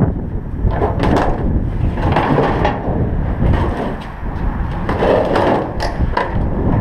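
Heavy wind buffeting the microphone, with a handful of sharp knocks and clatters mixed in, a couple about a second in and a couple near the end.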